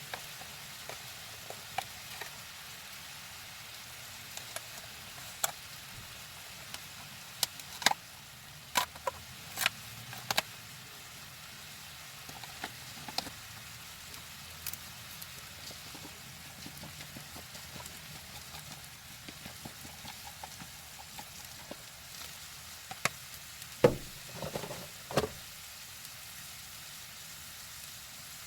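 Chicken tenders in a curry cream sauce sizzling steadily in a frying pan, with scattered sharp taps and clinks of a utensil against the pan, and a burst of louder knocks about 24 seconds in.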